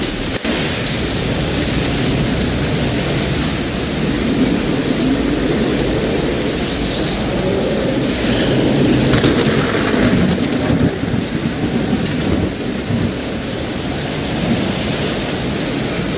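Thunderstorm: steady heavy rain with a long, deep rumble of thunder that swells from about four seconds in, peaks near the middle and fades again.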